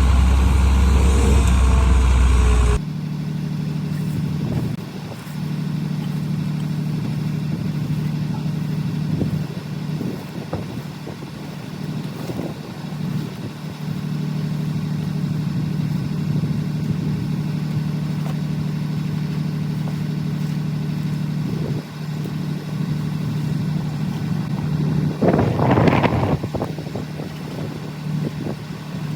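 Farmall 666 tractor engine running steadily with an even hum. A louder, deeper rumble in the first three seconds cuts off abruptly, and a brief louder surge comes near the end.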